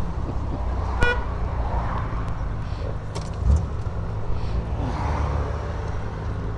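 Triumph Vitesse straight-six engine running steadily while driving, heard from the open-topped car, with road and wind noise. A short car-horn toot sounds about a second in.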